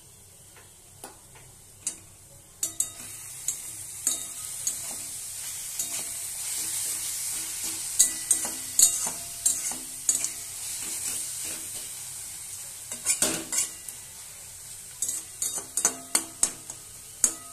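Grated bottle gourd sizzling in a metal kadai with the ghee just added, while a spatula stirs and scrapes it against the pan, giving repeated clicks and knocks. The sizzle is a steady high hiss that swells in the middle, and the knocks come in clusters, thickest near the end.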